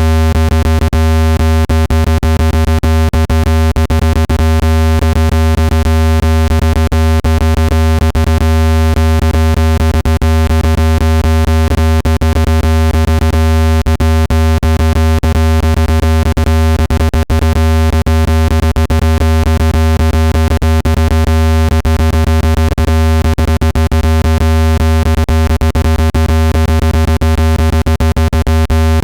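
Synthetic speaker-cleaning tone: a loud, steady low buzz with many overtones, crackling with frequent irregular clicks, meant to be played at full volume to shake dust out of a phone speaker.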